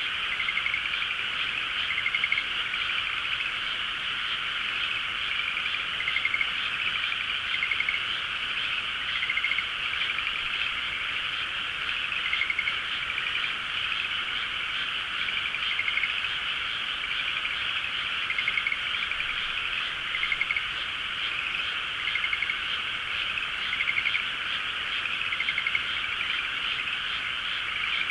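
A dense chorus of many frogs calling together, with short, louder calls from nearer frogs standing out every second or two.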